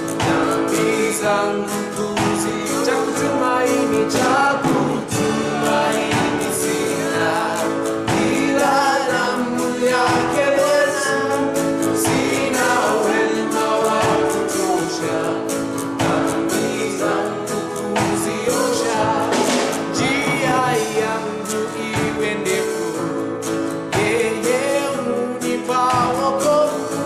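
Live gospel worship song: voices singing over band accompaniment with a steady beat.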